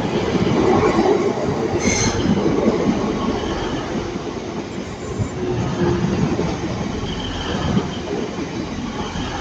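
A pair of Class 185 diesel multiple units passing close by, with a dense rumble of engines and wheels on rail that slowly fades. A brief high wheel squeal comes about two seconds in, and fainter squealing near the end.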